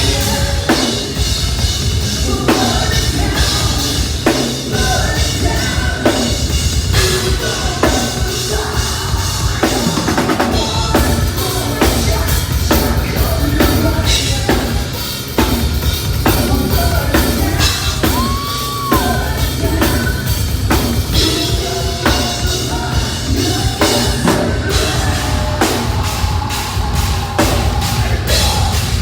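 Live heavy metal band playing loud, with a drum kit driving hard on the bass drum and a singer's voice over the band.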